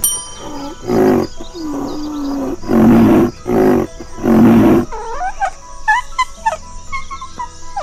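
Greater one-horned rhinoceros calling: a series of about six loud, low-pitched calls, one of them drawn out, over the first five seconds. Short, high chirping glides follow.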